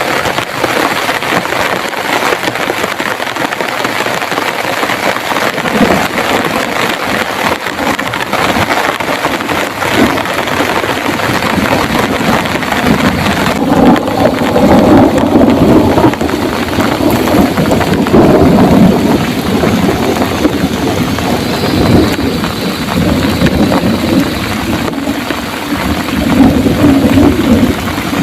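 Heavy rain pouring steadily, with a rolling rumble of thunder building up and swelling through the second half.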